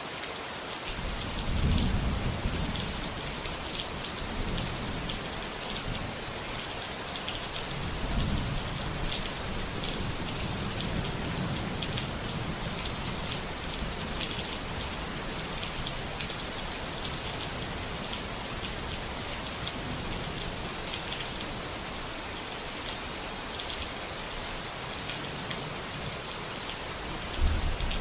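Steady heavy rain hissing, with low rolling thunder. Rumbles come in about a second and a half in and again around eight seconds, and a louder one begins near the end.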